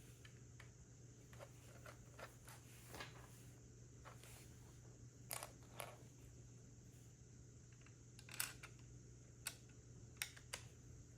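Plastic Lego bricks being handled and pressed together: scattered light clicks and taps at irregular intervals, the loudest about eight seconds in, over a faint steady low hum.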